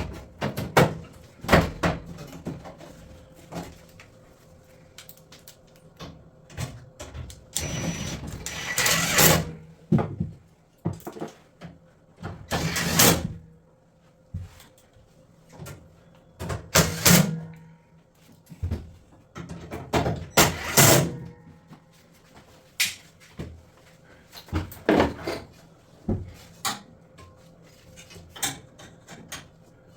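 Irregular knocks, clicks and clatter of hand work on a washing machine's parts, with several louder scraping or rattling bursts of about a second each.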